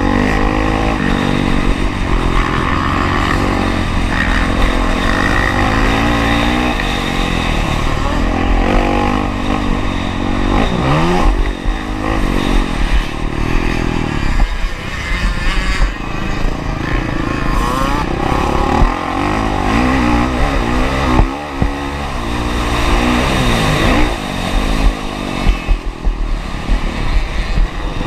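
Honda CRF450R's single-cylinder four-stroke engine, heard from a camera on the bike, revving up and down again and again as it is ridden hard around a motocross track. The engine drops off briefly about eleven seconds in and again about twenty-one seconds in.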